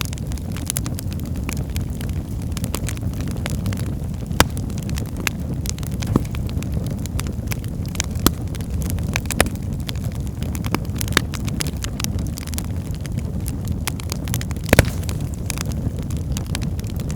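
Wood fire burning in a fireplace: a steady low rumble of flames with frequent sharp crackles and pops at irregular intervals, a few louder pops standing out.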